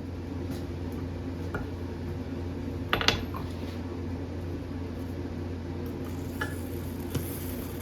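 A few short metallic clinks of steel being handled, a quick cluster of them about three seconds in, over a steady machine hum.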